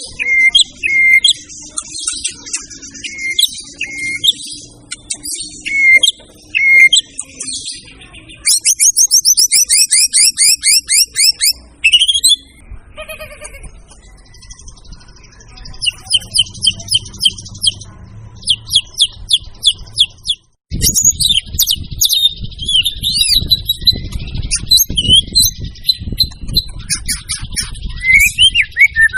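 White-rumped shama (murai batu) singing a long, varied song: clear whistled notes, then fast trills of rapidly repeated notes and chattering phrases. There is a brief break about two-thirds of the way through, and after it a low background rumble runs under the song.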